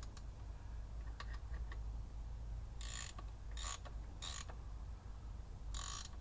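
Ratchet wrench with a socket tightening the transfer case filler plug: a few faint ticks, then four short bursts of ratchet clicking as the handle is swung back between turns.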